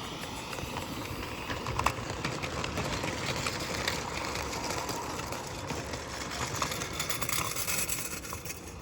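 Live-steam Accucraft Sabrina locomotive running with lithographed tinplate Marx gondolas behind it: a steady rattling rush of the running train, with scattered metallic clicks and jingles from the tinplate wagons' wheels over the rail joints.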